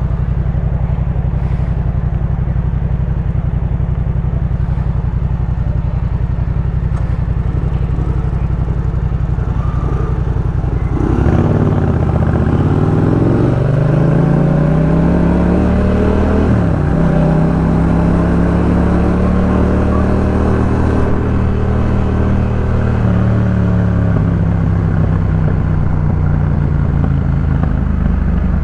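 Yamaha MT-07's 689 cc parallel-twin engine breathing through a Jeskap K4 full aftermarket exhaust. It runs steadily at low revs, then a little over a third of the way in it pulls away with rising revs. The revs dip briefly at a gear change, then it settles into a steady higher note.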